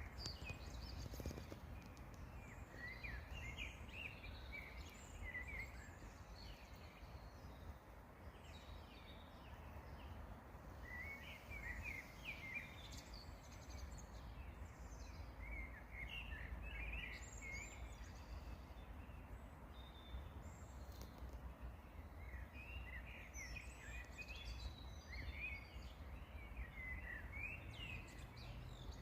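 Small songbirds singing outdoors in short bursts of chirps and trills, with pauses between the phrases, over a steady low background rumble.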